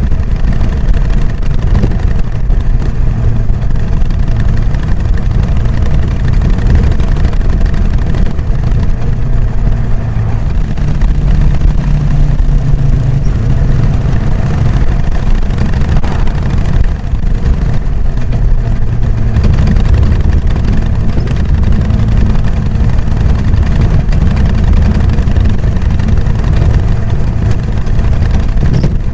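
Harley-Davidson Sportster XL883N Iron's air-cooled 883 cc V-twin running through its stock exhaust while riding, a deep steady rumble. About eleven seconds in the pitch rises briefly, as with a little more throttle, then settles again.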